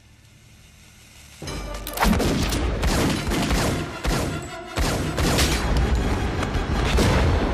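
Movie soundtrack: a rapid exchange of gunfire over the film's dramatic score, starting about a second and a half in after a quiet opening.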